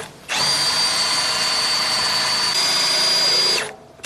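Electric motor of an RV's powered scooter carrier rack running for about three seconds with a steady high whine, raising the electric scooter onto the rack; the whine steps up slightly in pitch shortly before the motor stops.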